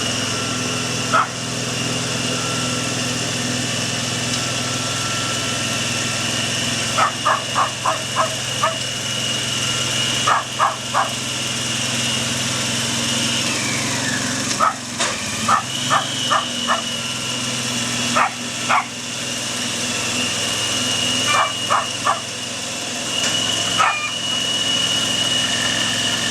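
Walk-behind cultivator engine running steadily, its pitch sagging briefly about halfway through and then recovering. Over it a dog barks repeatedly in volleys of three to five barks.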